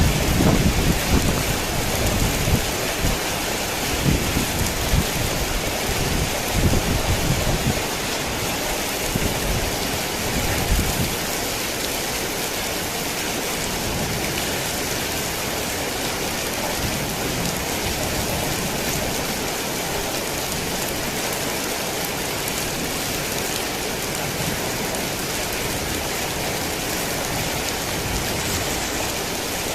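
Heavy rain falling steadily. Low thunder rumbles through roughly the first ten seconds, then dies away and leaves only the rain.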